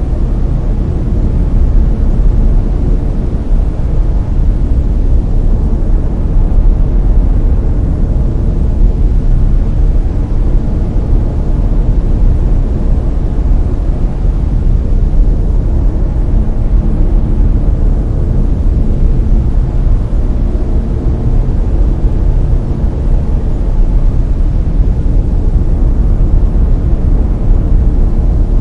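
Layered brown noise: a loud, steady, deep rushing hiss with its weight in the low end and no change in level.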